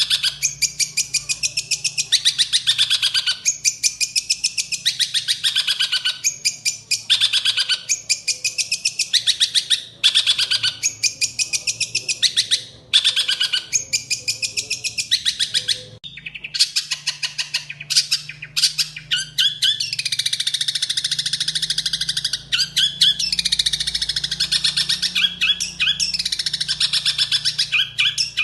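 A songbird singing a fast, continuous, high-pitched chattering song. The song comes in rapid runs of notes with short breaks between phrases.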